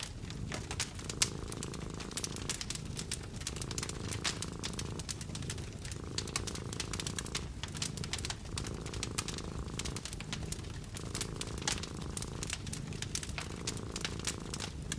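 A cat purring in a steady low rumble that pauses briefly about every two and a half seconds as it breathes, over a wood fire crackling with a constant patter of small pops.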